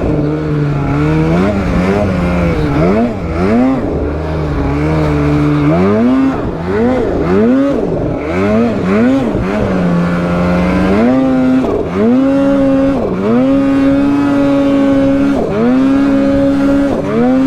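Polaris snowmobile engine under riding throttle, revving up and down again and again through the first half, then holding high revs in long pulls broken by short lifts off the throttle.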